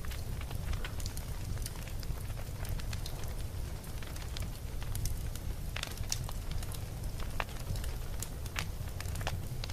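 Campfire burning: a steady low rumble of the flames with frequent sharp, irregular crackles and pops of burning wood.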